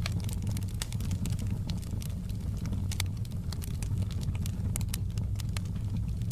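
Wood fire crackling in a fireplace, with many small, sharp pops over a steady low rumble.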